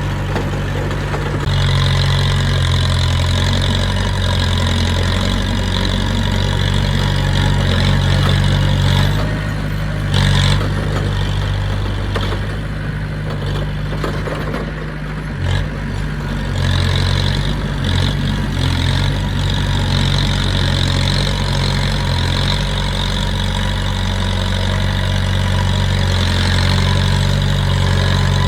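Diesel engine of heavy construction machinery running steadily, easing off for a few seconds around the middle and then picking up again.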